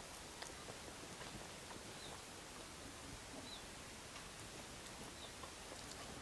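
Faint eating sounds: chewing and lip smacks, with small scattered clicks as fingers work rice and pork on a steel plate. A few short high squeaks come through.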